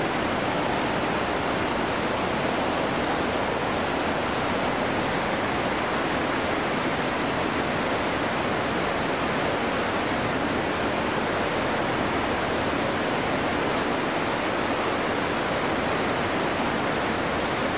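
Floodwater from an overflowing stream rushing steadily: a dense, even noise with no let-up.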